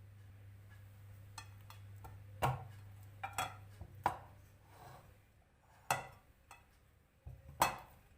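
Kitchen cookware and utensils being handled: a handful of sharp knocks and clinks, spaced about a second apart, over a faint low hum that stops about halfway through.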